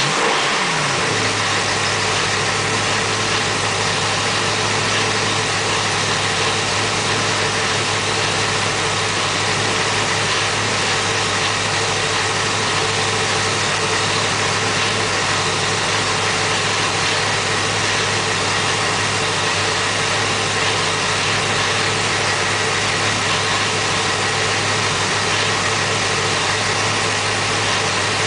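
632 cubic-inch big-block Chevy V8 blipped once, its pitch rising and falling in the first second, then idling steadily.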